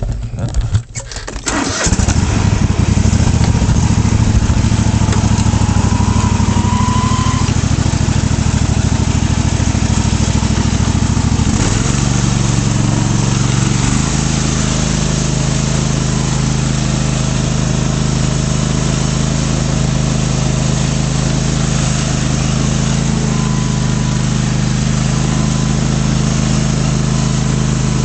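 Craftsman DGT 6000 lawn tractor's 27 hp twin-cylinder engine being started: a couple of seconds of ragged cranking, then it catches and runs steadily. Its note shifts twice, about halfway through.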